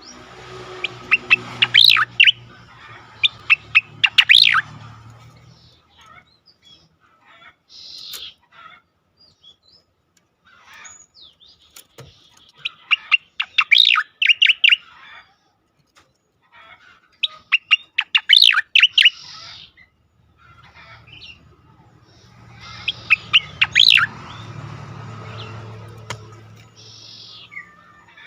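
Cica koreng (striated grassbird) singing in its energetic 'ngejoss' style: five bursts of rapid, loud chirping notes a few seconds apart, with softer scattered calls between. A low hum sits under the first and last bursts.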